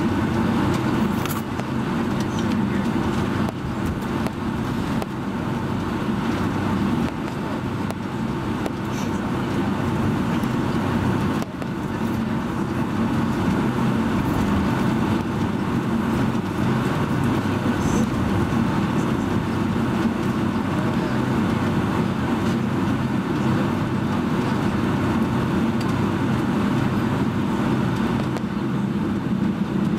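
Steady jet engine drone and cabin noise inside a Boeing 757-200, deep and even in level, with a brief dip about eleven seconds in.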